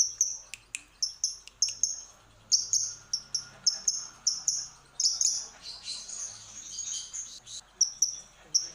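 Lovebird calling: rapid high-pitched chirps, about two or three a second, running into a longer unbroken chattering stretch in the middle, then chirps again near the end.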